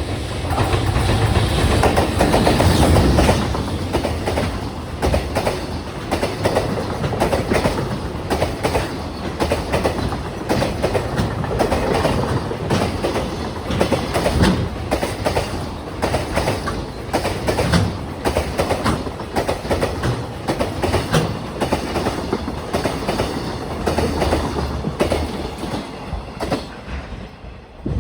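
Freight train passing close by, its wheels clattering in a steady run of clicks over the rail joints. It is loudest in the first few seconds, then the wagons roll past, and the sound fades just at the end.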